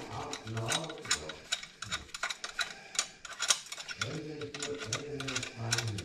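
Screws on a garbage disposal's sink mounting assembly being backed out with a tool: rapid ratcheting clicks, with a low mechanical whir in short spurts near the start and again in the last couple of seconds.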